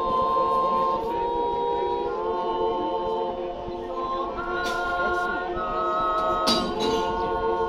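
Swiss yodel choir singing a cappella in several voice parts, holding long chords that step to new pitches every second or so. A sharp click sounds about six and a half seconds in.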